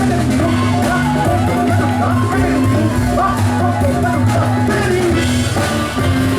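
Live folk-jazz band music from an ensemble of accordion, double bass, drums and percussion: a moving melody over sustained bass notes and a steady beat.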